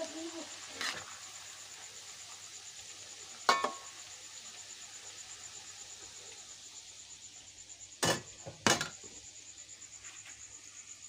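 Tempeh deep-frying in a wok of oil, sizzling faintly and steadily. Kitchen utensils knock sharply over it: one knock with a short metallic ring about three and a half seconds in, and two knocks in quick succession near the end.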